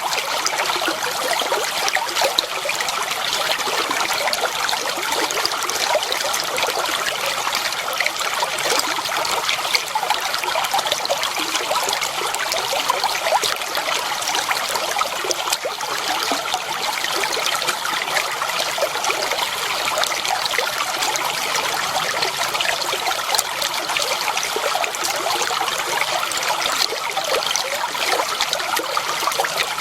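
Shallow water flowing and trickling steadily over stones, a continuous babble of small splashes and gurgles.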